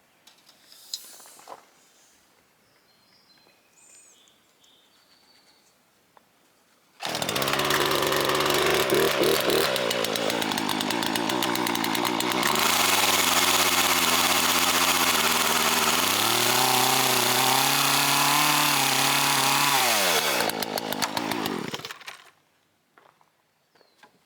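Poulan Pro PR4218 gas chainsaw comes in suddenly about a third of the way in. It runs loud for about fifteen seconds, its pitch shifting up and down, and near the end it drops and stops. Before it there are only a few faint bird chirps.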